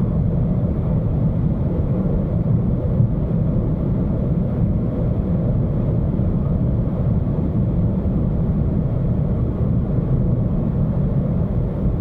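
Ford Fiesta's 1.0 EcoBoost turbocharged three-cylinder engine pulling flat out at high speed, with wind and tyre noise, holding a steady drone near the car's top speed.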